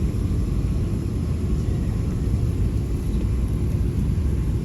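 Steady low rumble of an Airbus A380's engines and airframe, heard from inside the passenger cabin.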